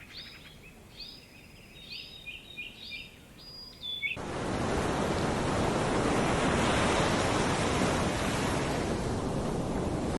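Small birds chirping in short repeated calls. About four seconds in, this cuts suddenly to a louder, steady rushing noise with no pitch, such as surf or running water.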